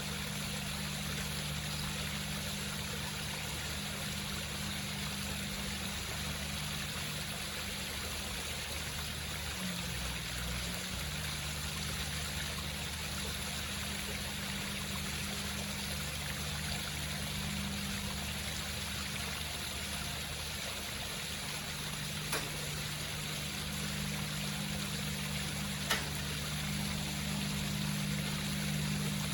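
Water trickling and splashing steadily over the rocks of a home waterfall, with a steady low hum underneath. Two faint ticks come near the end.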